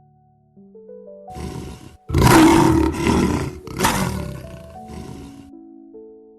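Lion roaring in long, rough calls: a shorter one about a second in, then two loud ones, fading out before the end. Soft background music of slow single notes plays underneath.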